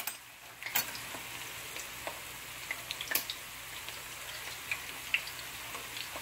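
Chopped meat with rice and garlic frying in ghee in a shallow metal pan, the meat's juices not yet cooked off: a steady sizzle with scattered crackles and pops.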